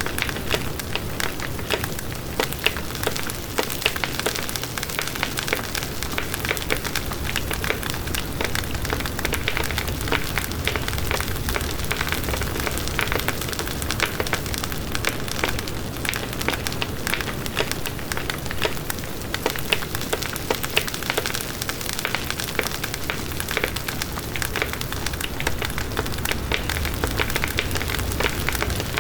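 Campfire burning steadily, with a constant low rumble and dense, irregular crackles and pops of burning wood.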